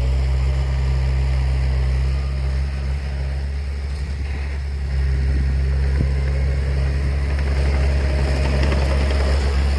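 Heavy diesel machinery engine running steadily with a deep low drone, easing slightly about three seconds in and picking up again at about five seconds.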